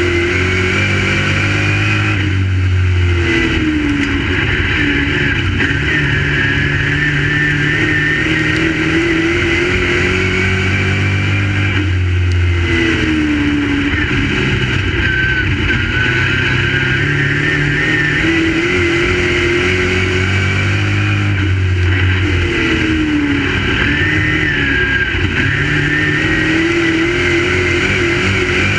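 Crate late model dirt race car V8 engines running laps. The pitch drops and climbs again in a cycle that repeats about every ten seconds, as the cars lift into the turns and accelerate down the straights.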